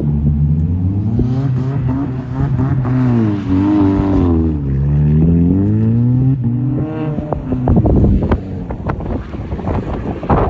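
Subaru Impreza's flat-four engine revving up and down several times as the car slides in snow. In the last few seconds the engine note breaks up into irregular crackling and knocks.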